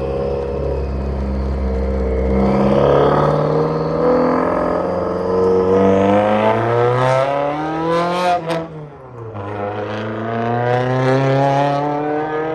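Straight-piped Subaru STI's turbocharged flat-four exhaust accelerating hard: the revs climb steadily for several seconds, drop sharply about eight and a half seconds in with a few sharp pops, then climb again.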